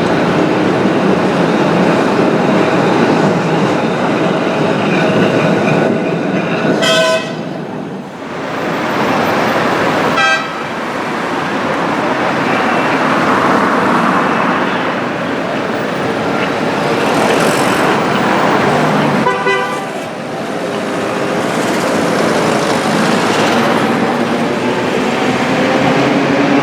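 A tram running through street traffic, with a steady rumble of wheels and traffic. Its horn sounds briefly a few times.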